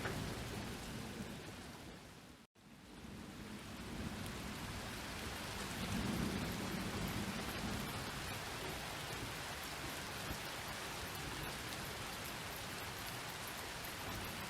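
Steady rain falling, with low rumbles of thunder. About two and a half seconds in, the sound fades to a moment of silence and then comes back up.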